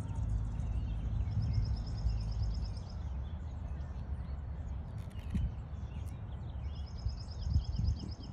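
A bird sings a fast, high trill twice, each lasting under two seconds, with other small chirps in between, over a loud, uneven low rumble.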